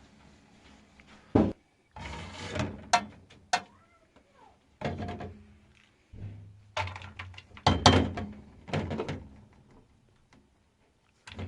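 A series of sharp knocks and thuds, with short stretches of scraping or rustling between them, then a pause.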